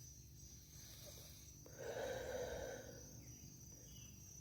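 A single audible breath, a little over a second long, starting near the middle, over a faint steady high chirring of crickets.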